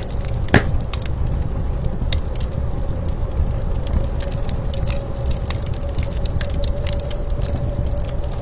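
Wood fire crackling and popping, with one louder pop about half a second in, over a steady low rumble of blizzard wind.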